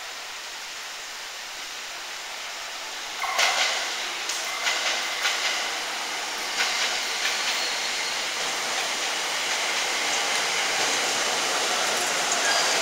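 Sōbu Line local electric commuter train pulling into the platform. The station is quiet with a steady hum until about three seconds in, when the train's running noise comes in. Its wheels then clack over rail joints in a series of knocks, growing louder as it draws alongside.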